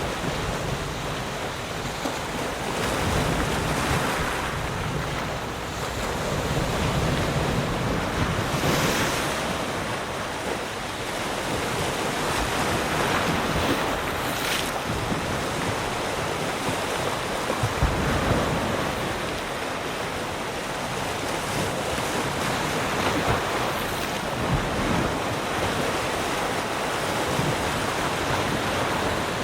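Ocean waves washing ashore as a continuous surf rush that swells and eases, with a hiss of breaking water.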